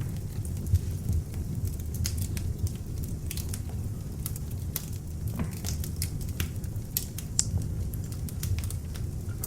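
Beech-wood log fire burning in an open fireplace: a steady low rumble of flames with frequent irregular crackles and pops.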